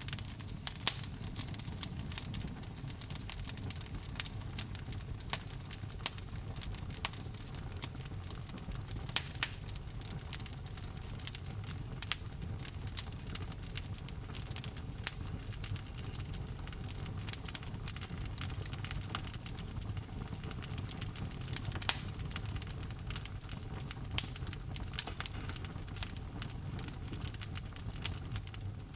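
Wood fire burning in a fireplace: irregular sharp crackles and a few louder pops over a steady low rush of the flames.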